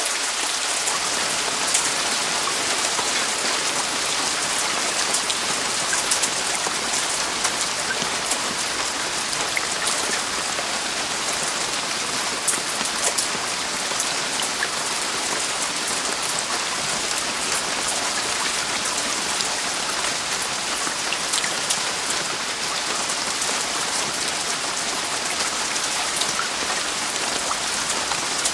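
Heavy rain falling steadily on a roof: a dense even hiss with many sharp individual drop hits scattered through it.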